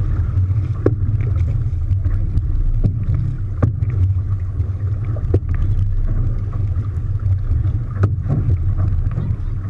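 Boat underway on open water during an outrigger canoe race: a steady low rumble with wind on the microphone, and scattered short clicks and knocks.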